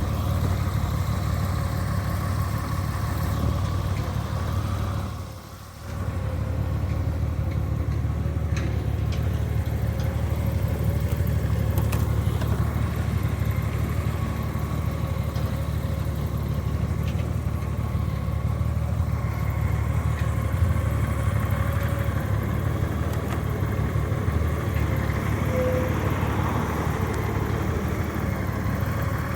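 Honda Gold Wing's flat-six engine idling steadily, with a brief drop in level about five seconds in.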